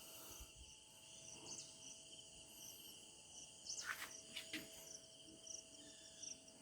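Faint, steady chorus of insects, crickets or cicadas, pulsing without a break, with a few short bird chirps about four seconds in.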